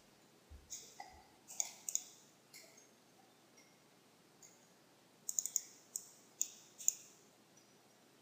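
Computer mouse buttons clicking in irregular single and double clicks, with a quick flurry about five to seven seconds in.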